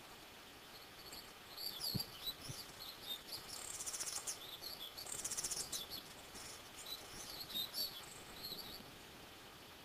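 High-pitched bird chirps and short gliding whistles, with two buzzy trills about four and five and a half seconds in.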